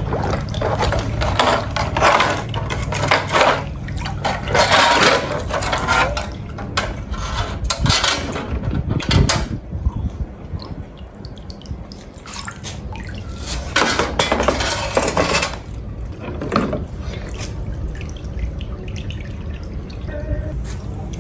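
Metal scale parts being washed: water splashing and running, with metal pieces clinking and clattering against each other, in irregular bursts.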